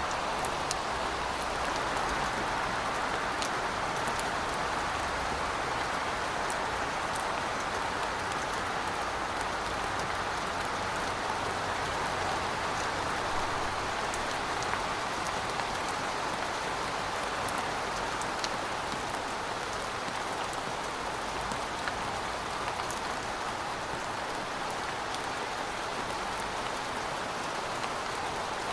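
Rain falling steadily, an even hiss with scattered sharp ticks of single drops.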